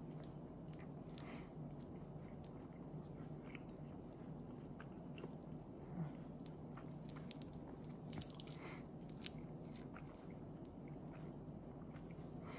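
Quiet chewing of a nori-wrapped tuna mayonnaise onigiri, with a few soft scattered clicks and ticks of mouth and food.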